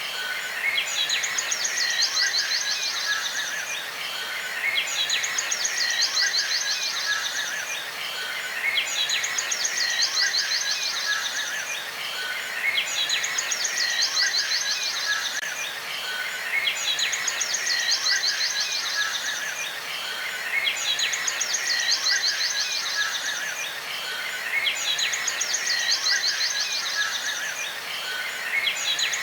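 A songbird's song: a fast, high trill over a few lower notes, repeated about every four seconds and the same each time.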